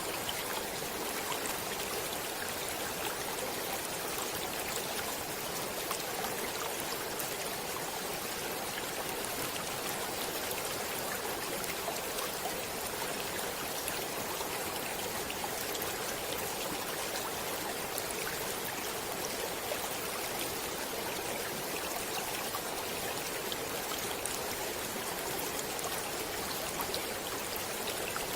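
A stream of water running steadily over rocks, with a continuous rushing and small splashes and trickles.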